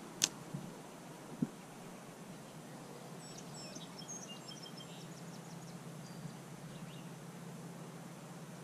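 Quiet outdoor ambience with a steady low hum, a single sharp click near the start, and a short run of small bird chirps a few seconds in.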